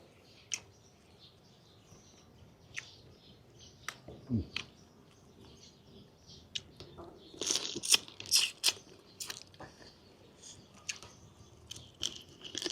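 Close-up eating sounds: chewing and crunching on pieces of chicken, with wet smacks and sharp clicks. They come sparsely at first and grow busiest and loudest a little past halfway.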